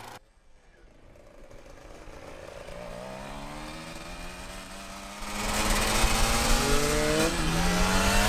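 Motorcycle engine accelerating, its pitch rising steadily, then much louder from about five seconds in.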